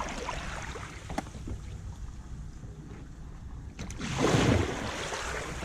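Wind buffeting the microphone and water noise from a kayak on the water, with a steady low rumble and a loud gust-like surge about four seconds in.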